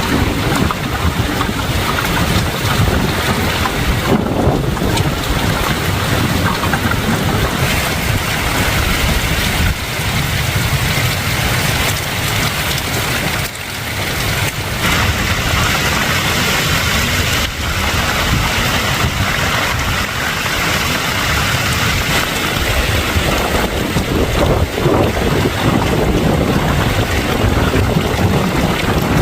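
Hailstorm: heavy rain with hailstones as big as a thumb pelting down, a loud steady rush of many small impacts.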